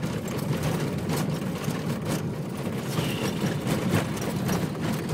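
Inside a car's cabin while driving: a steady engine and tyre rumble, with frequent short knocks and rattles as the car goes over bumps.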